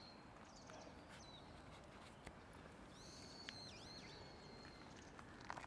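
Faint bird calls: thin, high whistled notes, with a longer wavering call about three seconds in, over a low, steady background noise.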